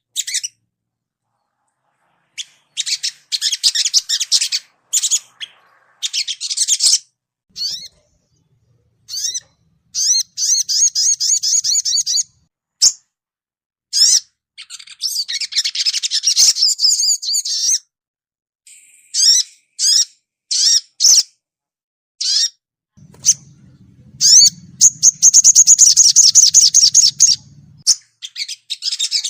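Sogon birds calling: repeated bursts of quick, high 'cuit cuit' chirps and rapid twittering trills, separated by short pauses. The densest and loudest run comes near the end.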